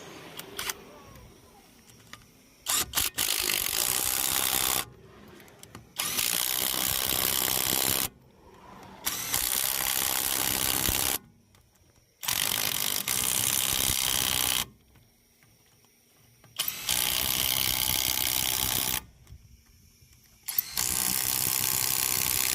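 A power tool running in six short bursts of about two seconds each, starting and stopping sharply, with brief pauses between.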